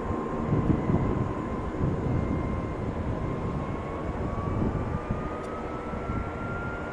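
Boeing 737-800's CFM56-7B jet engines running at take-off power: a steady rumbling roar with a thin whine that rises in pitch from about four seconds in.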